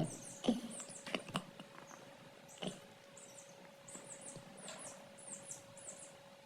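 Young chicks peeping: many short, very high cheeps that fall in pitch, in quick runs, thickest from about three to six seconds in. A few sharp knocks sound in the first three seconds.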